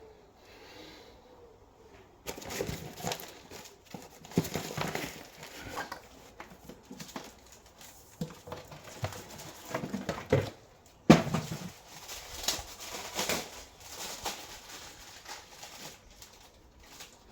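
Self-adhesive sound-deadening mat and its backing sheet being handled, crinkled and pressed onto the vehicle's metal bulkhead: irregular rustling and scuffing, with a sharp louder bump about eleven seconds in.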